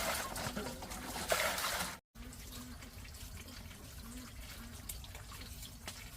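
Water running and splashing, louder for the first two seconds; after an abrupt cut, a quieter steady trickle.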